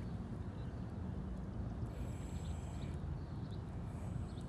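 Outdoor ambience: a steady low rumble, with a very high-pitched animal call twice, about two seconds in and again near the end.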